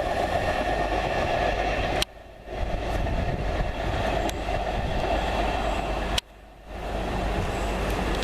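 A train running through the station at speed without stopping: a loud, steady rush of wheel and rail noise. The noise cuts away abruptly twice for about half a second, about two seconds in and again about six seconds in.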